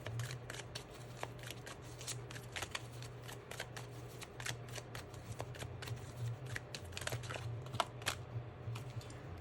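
A deck of tarot cards being shuffled by hand: an irregular run of quick papery clicks and flicks, over a steady low hum.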